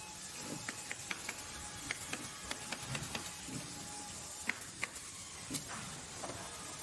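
Workshop machinery ambience: a steady background hiss with irregular sharp mechanical clicks and knocks, one or two a second.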